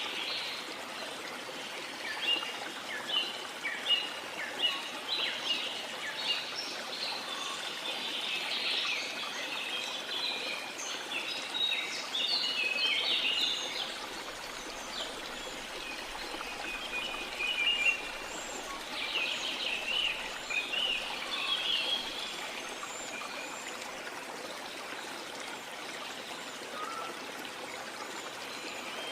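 Rainforest ambience: a river flowing steadily beneath many birds chirping and calling, busiest through the first half and again around two-thirds of the way in, thinning out near the end.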